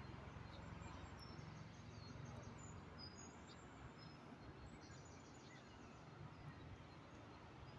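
Near silence: faint outdoor background with a few short, high bird chirps in the middle.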